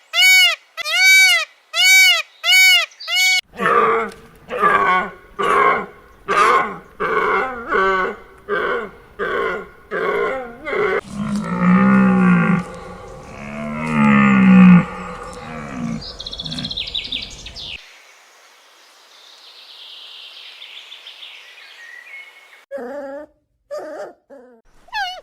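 A run of different animal calls: first a quick series of short, even, high calls about two a second, then a faster rhythmic series, then two deep drawn-out calls about twelve and fourteen seconds in, then faint high chirping before a few short calls near the end.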